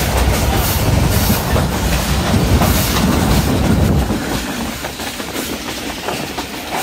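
Passenger train running along the track: wheels clatter over the rail joints above a heavy low rumble, and the rumble drops away sharply about four seconds in.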